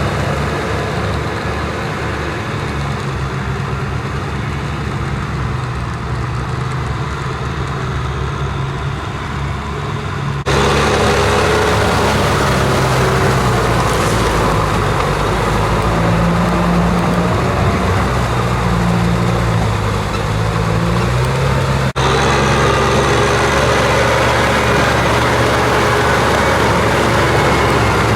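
Kubota M6040SU tractor's diesel engine running steadily, its pitch wavering a little. The sound changes abruptly twice, getting louder after the first change.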